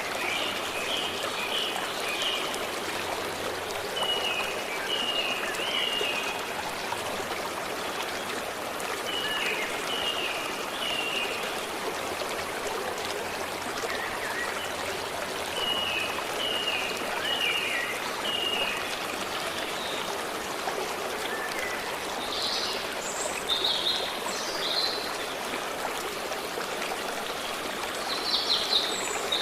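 Stream water running steadily, with a small bird repeating a short phrase of three or four quick notes every five seconds or so, and a different, louder chirping call twice near the end.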